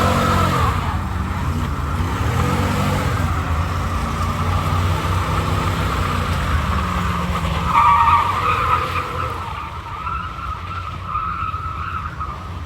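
A truck doing a burnout: its engine revs while the spinning tires squeal steadily. The squeal swells loudest about eight seconds in, then fades.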